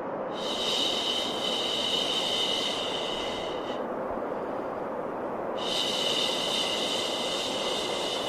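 A long, steady 'shhh' shushing sound for calming a baby, heard twice, each lasting about three and a half seconds with a pause between. Beneath it runs a continuous lower white-noise hiss.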